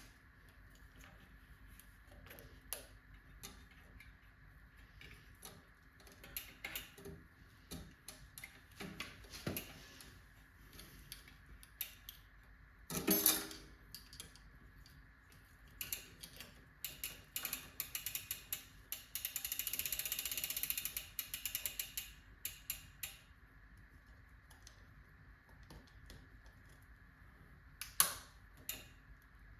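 A new bicycle chain and drivetrain being handled: scattered metallic clicks and chain rattles, with a louder clatter a little before halfway. About two-thirds of the way through comes a run of rapid ratcheting clicks, typical of a freehub's pawls when the cranks or wheel are turned.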